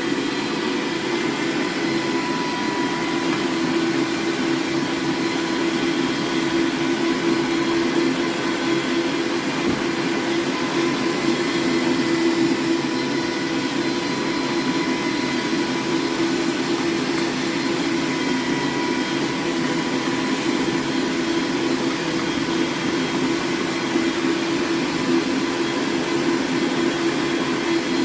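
Electric meat grinder running steadily, a constant motor hum, as it regrinds seasoned pork sausage through a smaller blade for a finer grind.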